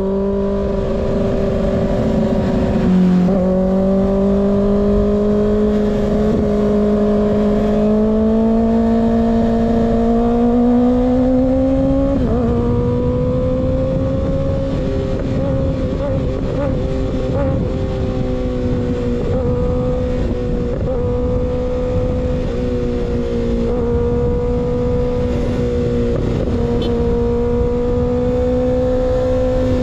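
Kawasaki ZX-6R inline-four through an unbaffled M4 GP19 slip-on exhaust, running at steady mid-to-high revs while riding. The pitch climbs slowly for about the first twelve seconds, then holds almost steady at cruise, over a constant rush of wind.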